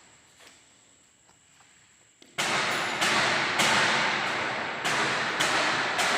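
A few faint clicks, then about two and a half seconds in a loud, even pounding begins: sharp, noisy strikes about every 0.6 seconds, each fading away before the next.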